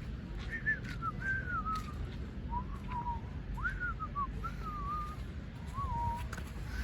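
A person whistling a wavering tune in several short phrases, over a steady low rumble.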